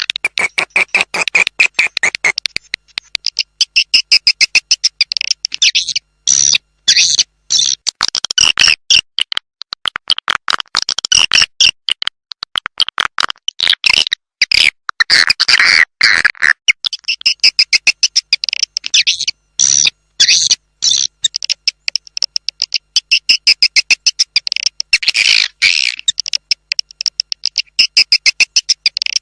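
Swiftlet calling sound (suara panggil walet): a recording of swiftlet chirps and twitters played as a lure to draw swiftlets to a nesting house. It is a dense, rapid chatter of high chirps in clusters, broken by short gaps.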